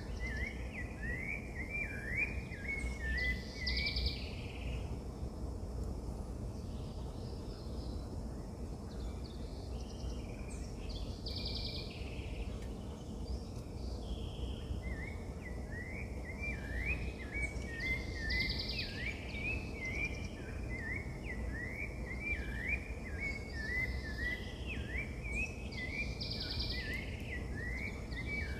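Birds calling: a rapid run of short chirps for the first few seconds and again through the second half, with a brief higher call every several seconds, over a steady low rumble of background noise.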